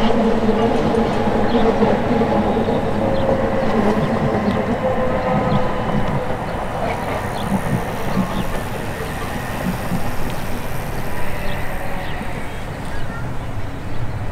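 Meter-gauge electric train running: a steady rumble of wheels on rail with a traction-motor hum that fades over the first few seconds, and occasional sharp clicks from the track.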